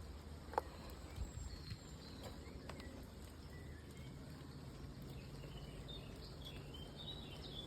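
Faint outdoor ambience with a few light clicks in the first three seconds and faint bird chirps near the end.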